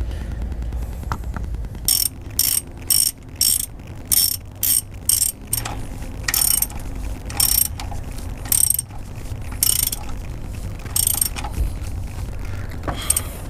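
Socket ratchet clicking: a quick run of strokes, then slower single strokes with pauses. It is tightening a plug on a BMW E46's transmission by hand.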